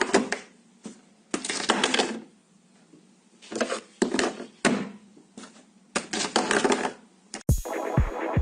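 Four bursts of rapid clicking and clattering, each under a second long, with short quiet gaps between them. Near the end, music with a steady thudding beat comes in.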